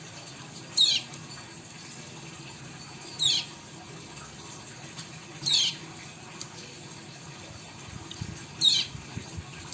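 A caged pet bird giving a short, sharp call four times, about every two and a half seconds, each call a quick downward-sweeping chirp, over a steady background hiss.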